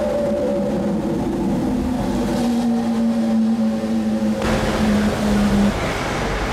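An engine running at a steady pitch, its note rising slightly about two seconds in, with a loud rushing noise coming in about four and a half seconds in.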